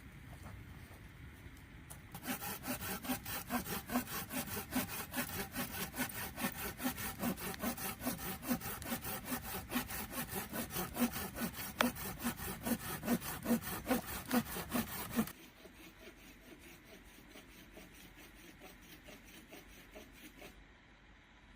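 Hand saw cutting through wood in quick, even back-and-forth strokes, about three a second, starting about two seconds in and stopping after some thirteen seconds.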